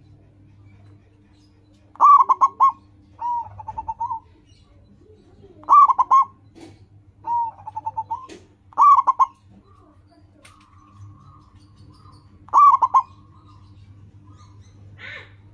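Zebra dove (perkutut) cooing: four loud, short phrases of quick coo notes every three to four seconds, with softer, lower trilled phrases in between.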